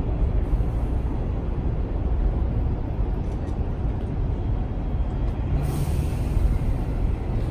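Electric train running past a station platform: a steady, heavy rumble, with a hiss setting in about five and a half seconds in.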